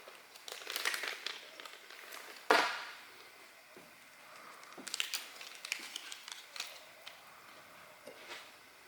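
Handling noises of printer parts being assembled: scattered clicks, taps and rattles, with one louder knock about two and a half seconds in.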